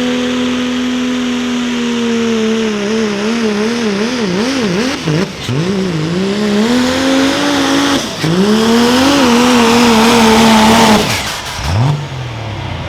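Diesel pickup truck engine from the 3.0 Limited Pro pulling class, held at high revs under load with a strong hiss over it. Its pitch wavers rapidly for a few seconds and dips twice, then falls sharply about eleven seconds in as the throttle comes off.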